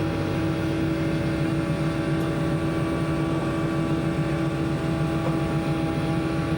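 Douglas DC-3's twin Pratt & Whitney R-1830 radial piston engines running steadily, a droning hum of several held tones over a rumble.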